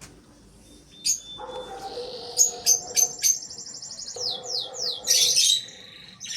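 Small cage birds chirping and squawking, with a run of quick falling chirps about three and a half seconds in and a harsh, scratchy burst about five seconds in.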